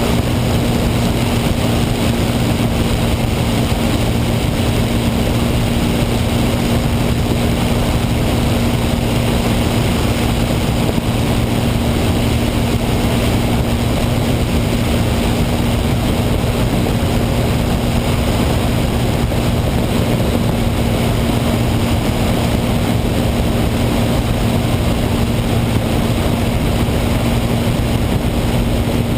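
Propeller aircraft's piston engine droning at a constant speed: a steady low hum with no change in pitch or level.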